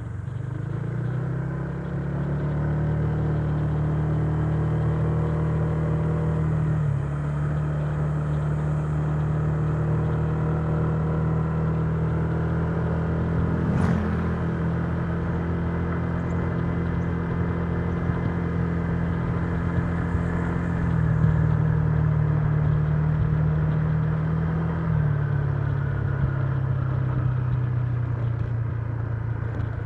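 Honda Giorno 125 scooter's single-cylinder engine running under way. The engine note rises over the first couple of seconds, then holds steady, easing down a little a few times. A sharp click comes about halfway through.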